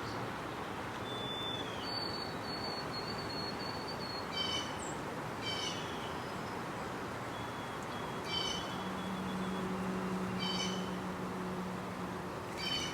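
A small animal or bird repeating a short, high, ringing call every one to two seconds over a steady outdoor hiss. A faint low hum joins about nine seconds in and fades a few seconds later.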